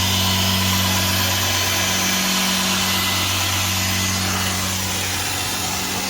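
Putty sprayer's motor running steadily: an even low hum with a broad hiss over it.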